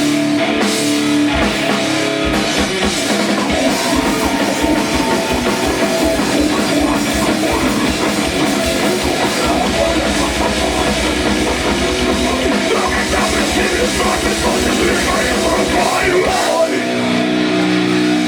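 Rock band playing live, with electric guitar and drum kit. Near the end the drumming stops, leaving held guitar notes ringing.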